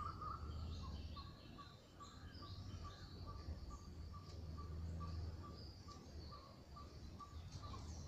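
Birds calling in the open: one keeps up an even series of short pips, about three a second, while others chirp higher and more irregularly. A low rumble runs underneath.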